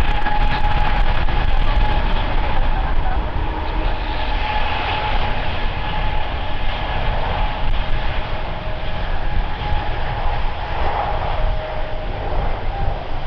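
Airbus A350-900's Rolls-Royce Trent XWB jet engines running: a steady roar with a wavering whine.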